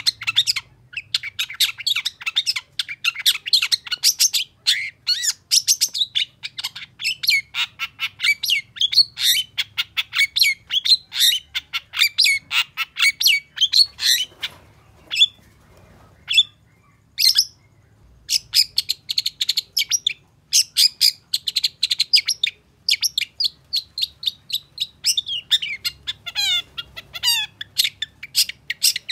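Long-tailed shrike singing a fast, almost unbroken run of sharp chattering and whistled notes, several per second, with a short lull about halfway through and a few quick falling sweeps near the end.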